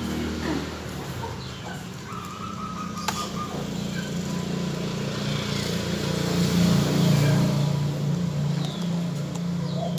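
A few short small-bird chirps over a steady low hum that swells about two-thirds of the way through.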